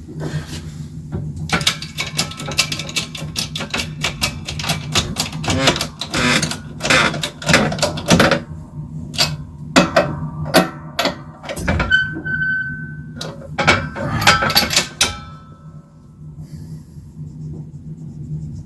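Quick irregular clicks, taps and knocks of hand tools and tube parts while red pyrotechnic composition is loaded and pressed into a firework tube, over a steady low hum. The clicking thins out near the end.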